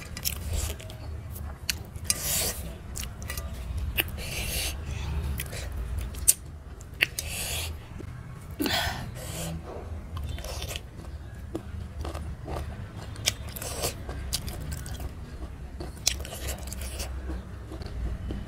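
Close-miked wet chewing and biting of chicken liver and gizzard curry eaten by hand, with many sharp mouth clicks and smacks and a single loud click about six seconds in, over a steady low hum.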